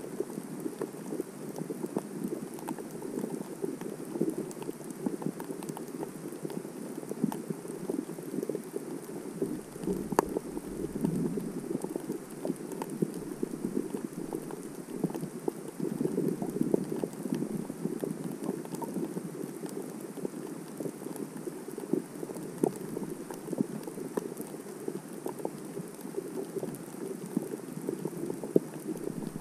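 Underwater sea ambience picked up by a GoPro in its housing: a continuous muffled wash of water with dense, irregular crackling clicks.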